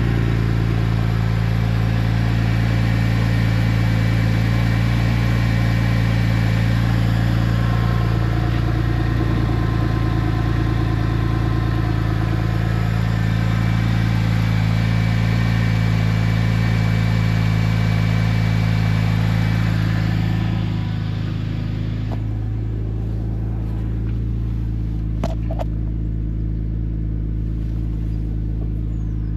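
2004 Porsche 911 Turbo's twin-turbocharged 3.6-litre flat-six idling steadily after a cold start. About twenty seconds in the sound gets a little quieter and the higher hiss drops away, and a couple of short clicks follow.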